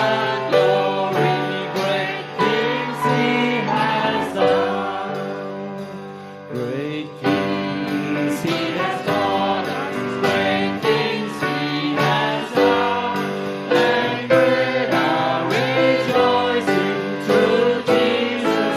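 Live worship song in a church service: a band with piano and drums plays with a steady beat under sung melody. The music eases off briefly about six seconds in, then picks up again.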